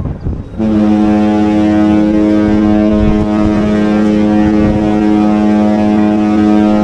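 Cruise ship's horn sounding one long, steady blast that starts about half a second in.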